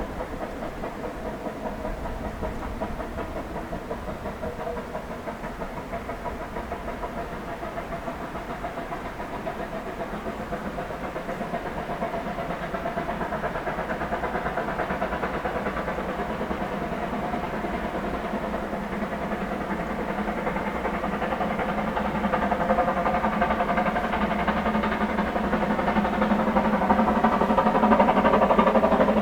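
Ffestiniog Railway narrow-gauge steam train running with a steady, fluttering mechanical sound that grows louder throughout as it approaches.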